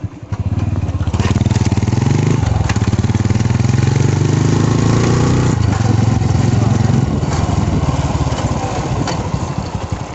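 Motorcycle engine running close by. Its pitch shifts about two and a half seconds in and again midway, and it eases off near the end.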